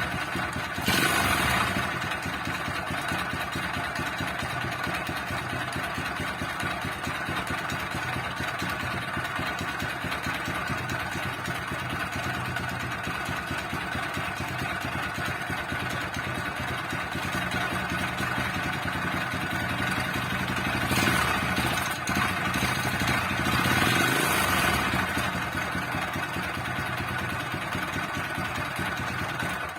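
Honda Super Cub engine bored up with a SHIFTUP 110 kit running at idle with an abnormal noise, revved briefly about a second in and again between about 21 and 25 seconds. The noise is the sign of a shattered engine bearing, a warning to stop riding.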